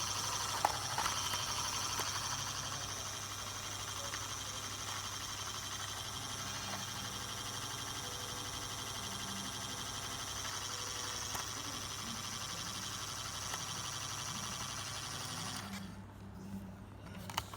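Toy washing machine running steadily, then cutting off abruptly near the end, followed by a couple of sharp clicks.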